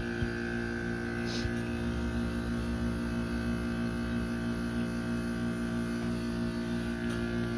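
Outdoor heat pump unit running in defrost mode, a steady electrical hum made of several fixed tones.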